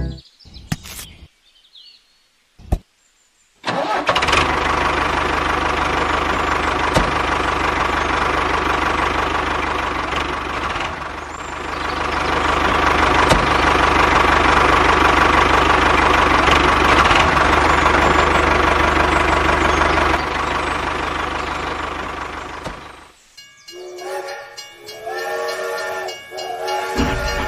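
A motor running steadily and loudly, starting about four seconds in after a few clicks and stopping near the end.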